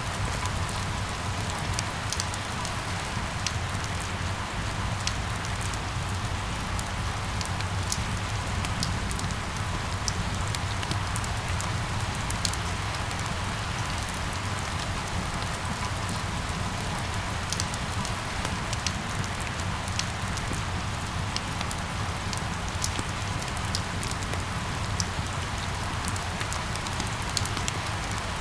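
Steady rain falling, with scattered sharp ticks of individual drops striking close by over an even hiss and a steady low rumble underneath.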